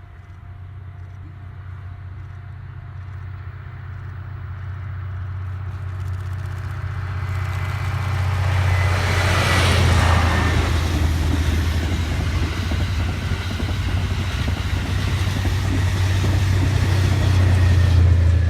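E001 series 'Train Suite Shiki-shima' train approaching and passing a level crossing. Its running noise grows steadily louder, peaks with a short falling whine about ten seconds in as the train goes by, and stays loud as the rest of the train rolls past over a steady low drone. A level crossing bell ticks faintly at first, then is drowned out.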